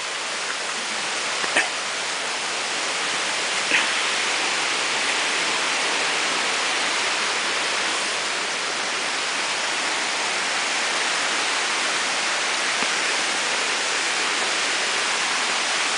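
Waterfall's falling water rushing as a steady, even noise, with two brief faint sounds about a second and a half and about four seconds in.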